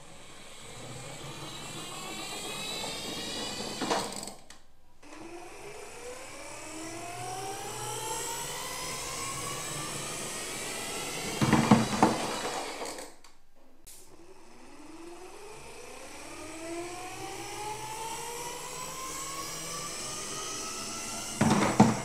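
A plastic toy car's motor and gears whining and rising steadily in pitch, three times over. Each run ends in a loud clatter of plastic.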